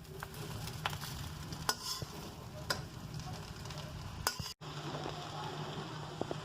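Chow mein noodles being stir-fried in a pan, with a spatula knocking against the pan about once a second over a faint sizzle and a steady low hum. The sound cuts out for an instant a little past four seconds in.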